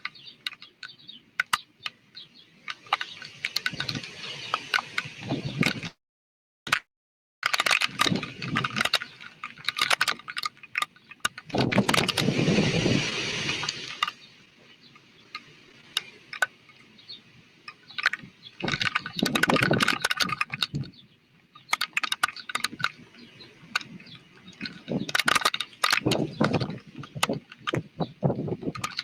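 Thunderstorm wind gusting in surges every few seconds, each surge full of crackling, rattling rain and debris, with quieter lulls between. The sound drops out completely for about a second and a half early on.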